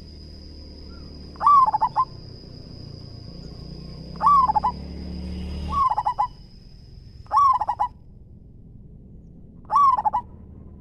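Zebra dove (perkutut) cooing: five short, stuttering coos, each about half a second long, spaced a few seconds apart.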